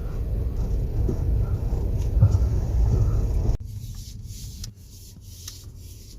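Low, steady rumble of a car moving slowly, heard inside the cabin. It cuts off abruptly about three and a half seconds in, leaving a quieter stretch with a few faint clicks and rustles.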